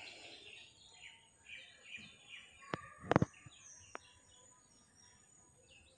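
Birds chirping and calling in short, faint notes, with a few sharp clicks near the middle, the loudest a quick double click.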